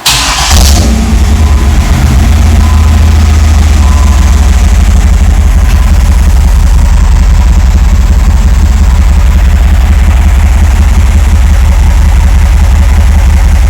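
1995 Camaro Z28's LT1 350 small-block V8, fitted with a Magnaflow exhaust, idling steadily and loudly, after a short noisy burst right at the start.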